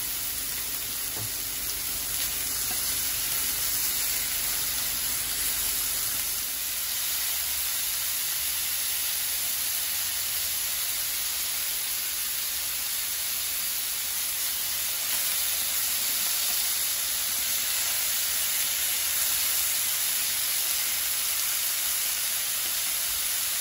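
Chicken breast pieces and broccoli sizzling steadily in a frying pan as the stir-fry finishes cooking.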